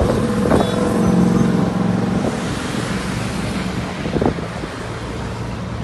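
Engine drone of a small propeller plane towing a banner overhead, with a stack of steady tones strongest in the first two seconds, then easing off, over wind noise on the microphone.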